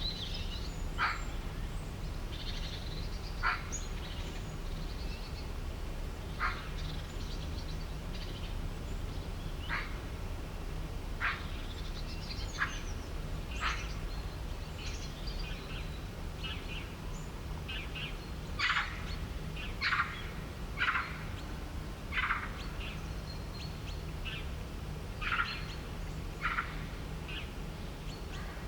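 Birds calling: short, sharp chirps repeated every second or two, coming thicker in the second half, with fainter high twitters between them. A steady low hum runs underneath.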